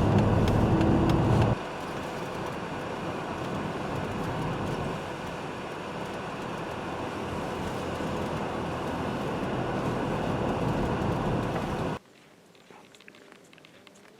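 A car driving: steady engine and road noise. The noise drops suddenly about a second and a half in, then cuts off abruptly about twelve seconds in, leaving a faint background with a few small clicks.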